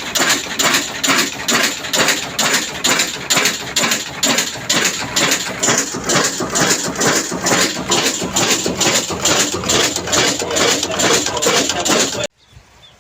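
Lahore-made Ruston-type stationary diesel engine running, with a steady, even knock of about three to four beats a second. The sound cuts off abruptly about twelve seconds in.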